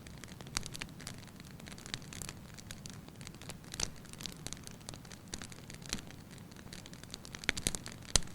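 Firewood burning in a fireplace, crackling with scattered sharp pops over a steady low rush, and a quick cluster of louder pops near the end.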